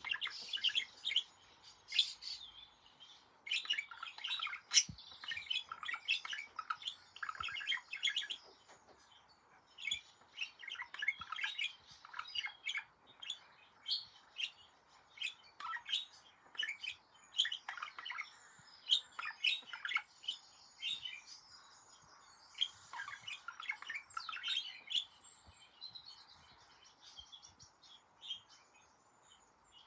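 Pet budgerigar warbling: a long run of rapid chirps, clicks and chatter with short pauses, thinning out over the last few seconds.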